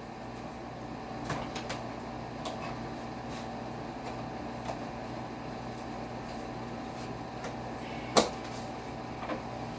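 Vacuum cleaner running with a steady hum, with a few light knocks and one sharp knock about eight seconds in.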